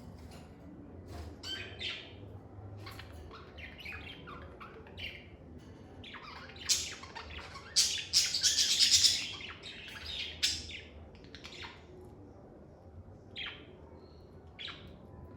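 Lovebirds chirping with scattered short, high calls, then a dense burst of rapid calls about eight seconds in, the loudest stretch.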